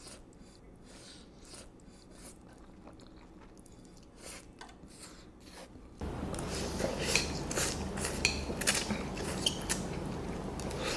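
Close-miked eating sounds of spicy noodles being chewed, with cutlery clicking and clinking against a bowl. About six seconds in, the sound jumps suddenly louder, with dense chewing and clicks.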